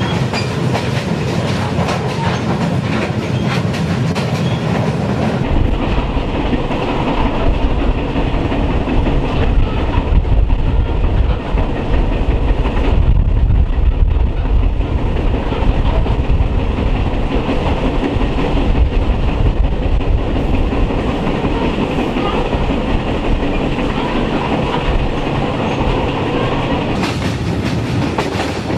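Passenger train on the TAZARA line running, heard from on board: a steady rumble of wheels and carriage on the track. The low rumble gets heavier about five seconds in.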